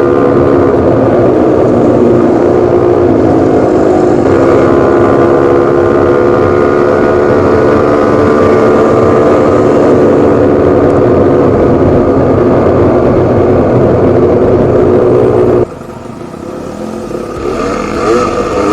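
Enduro motorcycle engine running hard at fairly steady high revs. About three-quarters through the sound drops suddenly to a much quieter level, then climbs again with the revs rising and falling near the end.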